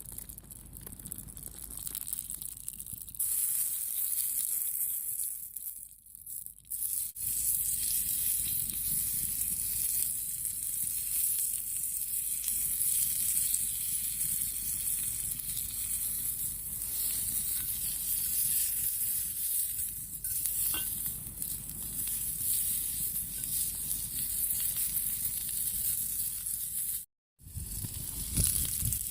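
Food sizzling as it cooks, a steady hiss that breaks off briefly twice.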